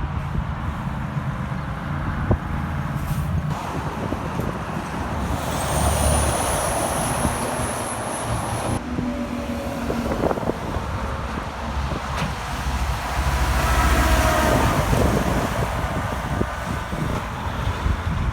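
Heavy trucks passing on a highway: diesel engines rumbling with tyre and road noise. A high whine rises from about five seconds in and cuts off suddenly, and a pitched tone swells near fourteen seconds as a truck goes by.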